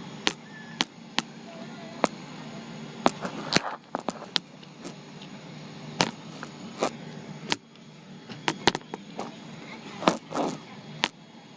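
Steady airliner cabin hum with about a dozen sharp clicks and knocks scattered through it, a few of them followed by a brief rattle.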